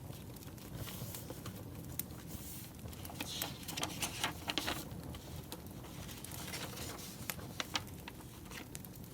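Firewood burning, crackling with scattered sharp pops and snaps over a soft steady hiss, the pops busiest about four seconds in.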